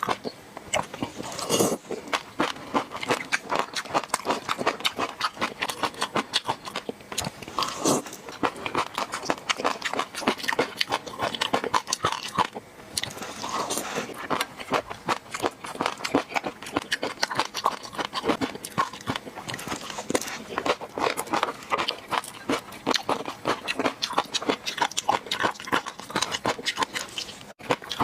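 Close-miked chewing and mouth sounds of someone eating fish roe sauce: a dense, continuous run of small clicks and crackles.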